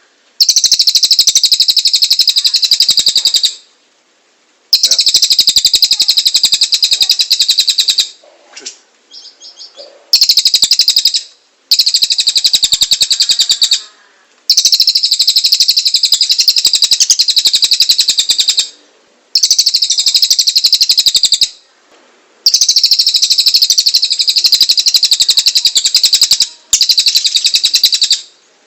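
Cililin (lesser racket-tailed drongo) singing loudly in long runs of rapid, harsh high notes, each run lasting a few seconds, with short pauses between them.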